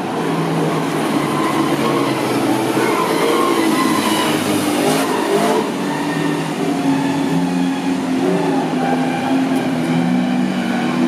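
Several car engines running and revving as the Joker's magenta stunt car, the Batmobile and a camera car drive along the street, the engine pitch rising and falling several times.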